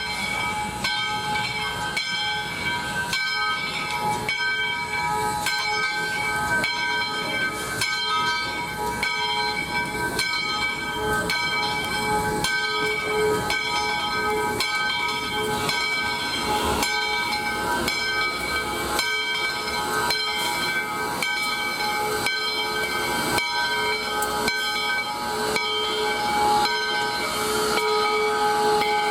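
Standing steam locomotive (US Sugar #148) hissing steam steadily, with several whistling tones in the hiss that waver in and out.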